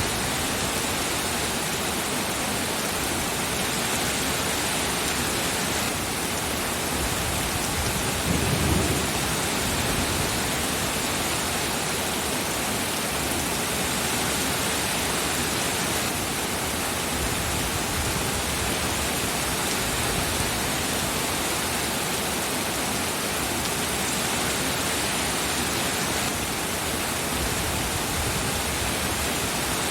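Steady heavy rain falling, an even hiss without a break, with a brief low rumble about nine seconds in.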